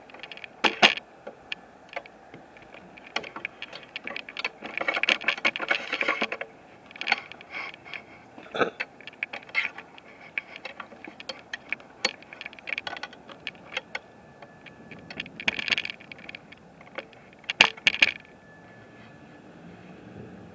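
Irregular sharp clicks and taps coming in bursts, with the densest clusters about a quarter and three quarters of the way through, over a faint steady hiss.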